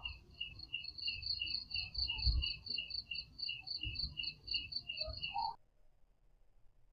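Rapid, even chirping, about five short high chirps a second on two alternating pitches, over a low rumble. It cuts off suddenly about five and a half seconds in.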